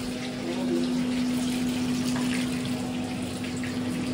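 Potato bhujia frying in an uncovered pan, a steady sizzle, with a steady low hum underneath.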